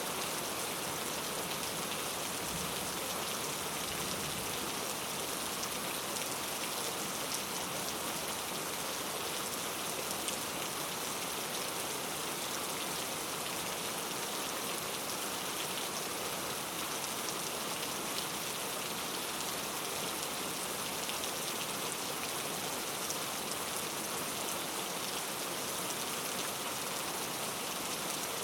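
Steady rain falling on rainforest foliage, an even dense hiss with many fine drop patters.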